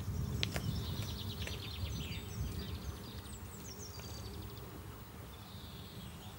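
Garden birds chirping and singing, many short rapid calls, over a low steady rumble of outdoor background noise.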